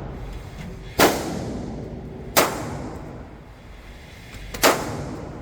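Three gunshots at a firing range, spaced over a few seconds, each with a long echoing tail.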